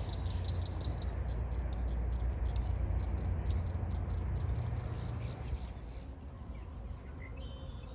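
Small birds chirping with short, high, rapidly repeated notes, over a low rumble that eases about five seconds in; a brief bird call near the end.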